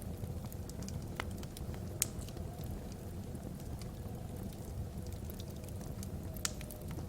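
Wood fire burning in a fireplace: a steady low rumble of the flames with irregular sharp crackles and pops, the loudest about two seconds in and again near the end. A faint wavering wind whistle sits in the background.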